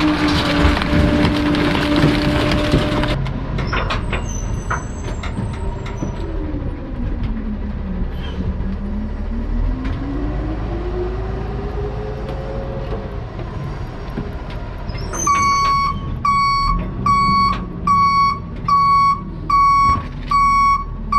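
Bulky-waste garbage truck: loud crushing with a steady hydraulic hum for about three seconds, then the truck's engine running with its pitch dipping and rising again. From about fifteen seconds in, its reversing alarm beeps steadily, a little more than once a second.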